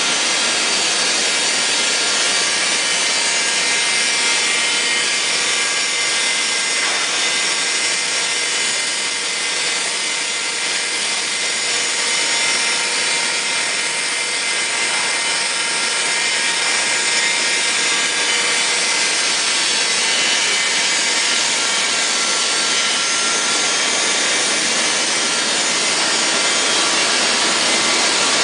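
Field grinding machine grinding the steel riding rings of a large rotary dryer while the dryer keeps turning: a steady, high grinding hiss with a few faint steady tones through it.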